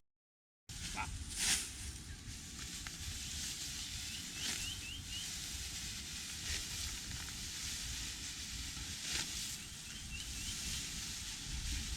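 Outdoor rice-field ambience. The sound cuts in after a brief silent gap, then a steady hiss runs under occasional short rustling swishes. Twice there is a quick run of three or four short high chirps.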